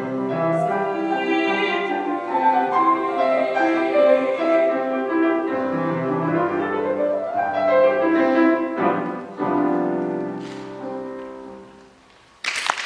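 Piano playing the closing bars of a classical song accompaniment, ending on a final chord that dies away. Applause breaks out near the end.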